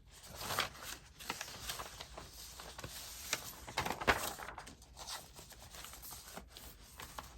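Sheets of paper ephemera rustling and shuffling as they are handled and sorted, in irregular strokes with a few crisper swishes, the sharpest about four seconds in.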